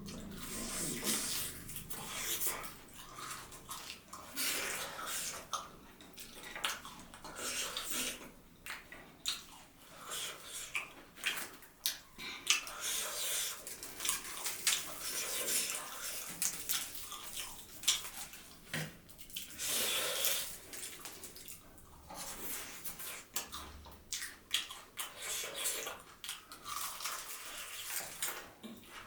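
Close-miked eating: wet chewing and smacking mouth sounds, many small irregular clicks.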